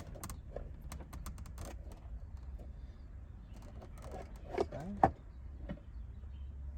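Light metallic clicks and rattles of tools and car parts being handled, with two louder sharp knocks about five seconds in, over a steady low hum.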